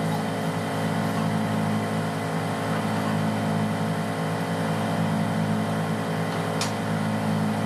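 Marine auxiliary diesel engine running steadily at a constant speed, with one short sharp click about six and a half seconds in.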